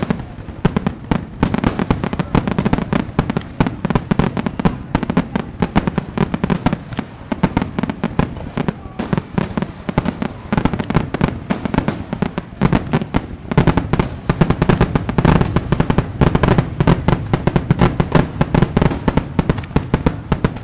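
Fireworks going off in a dense, continuous barrage: rapid bangs and crackling overlapping many times a second, with no pauses.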